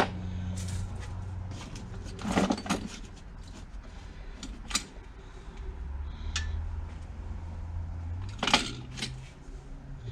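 Metal tools and engine parts clinking and clattering as they are rummaged through and set down, with louder knocks about two and a half seconds in and near the end, over a low steady hum.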